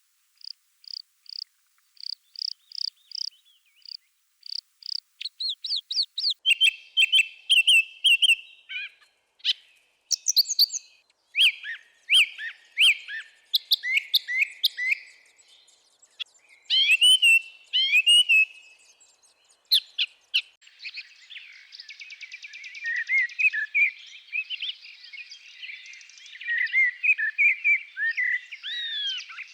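Wild birds singing: a run of short, high repeated notes, two or three a second, opens it, then varied whistled phrases of rising and falling notes follow, turning into dense, overlapping chatter in the last third.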